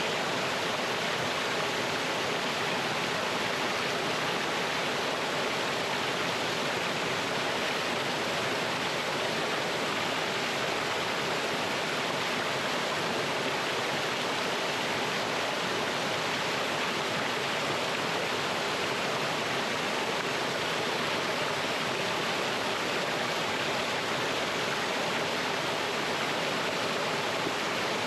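Mountain stream water flowing and splashing over rocks in a small cascade: a steady, even rush with no change.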